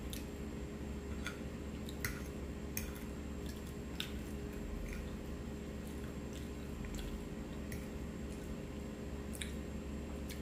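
A person chewing and eating chicken pot pie, with scattered small clicks from the fork and mouth at irregular moments. A steady low hum runs underneath.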